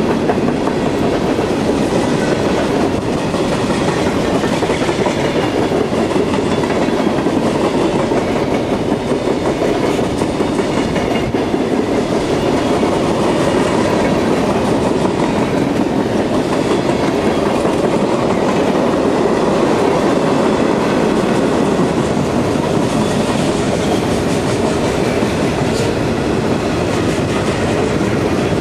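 Freight cars of a long CSX mixed freight train rolling past close by at speed: a steady, unbroken rumble and clatter of steel wheels on the rails.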